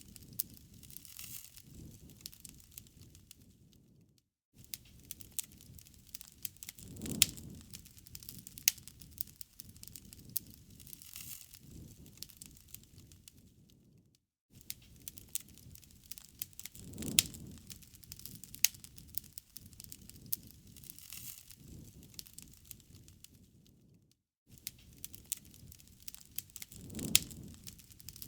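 Wood fire crackling, with sharp pops and snaps over a low rumble that swells now and then. The same ten-second stretch repeats, with a short dropout each time round.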